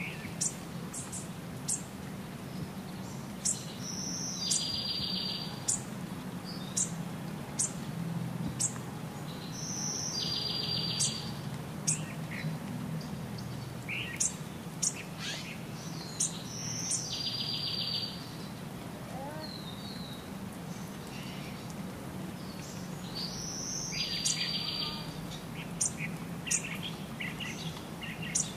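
Songbirds chirping: many short, sharp, high chirps, and a buzzy trilled call that comes back four times at even intervals of about six and a half seconds, over a steady low rumble.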